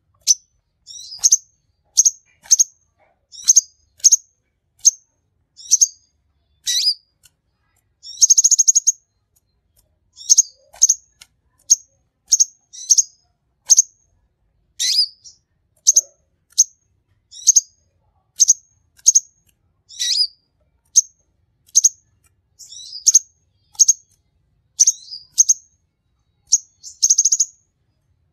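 Kolibri konin sunbird singing: short, sharp, high chirps repeated about one or two a second, broken by a brief rapid rattling trill about eight seconds in and another near the end.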